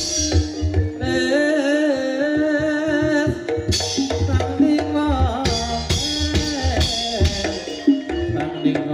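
Live Banyumasan gamelan music for an ebeg dance: kendang hand drums beat a busy, uneven rhythm under a wavering, held melody line.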